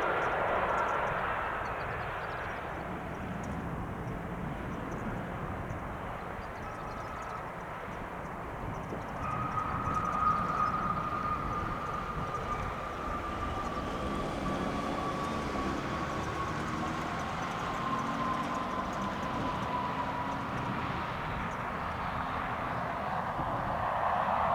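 Gulfstream G500 business jet's twin Pratt & Whitney PW814GA turbofans whining while the jet rolls out after landing, the whine falling slowly in pitch over a steady rush of engine noise.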